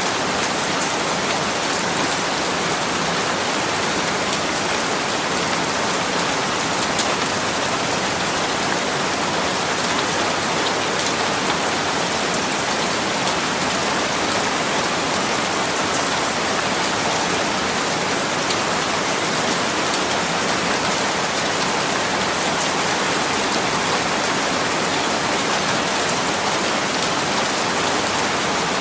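Steady rain falling, a constant hiss with many small drop patters on a surface and no change in strength.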